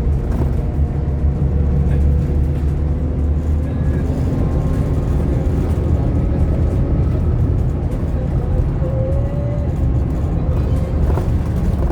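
Scania K230UB OmniLink single-deck bus on the move, heard from inside the cabin: steady diesel engine and road rumble, with a faint whine above it.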